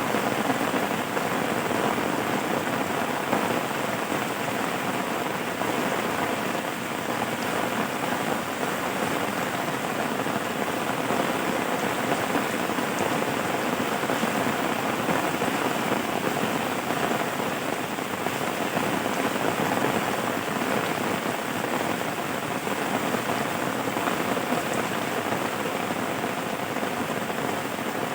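Steady rain falling and pattering on a surface, a dense even hiss with scattered drops and no change in intensity.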